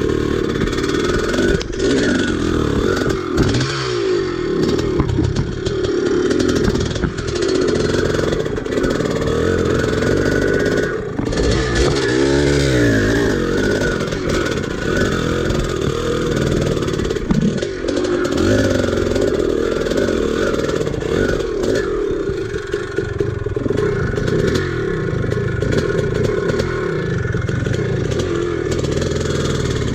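Vintage dirt bike engine under way on a trail, its pitch rising and falling again and again as the throttle opens and closes, with a few short knocks.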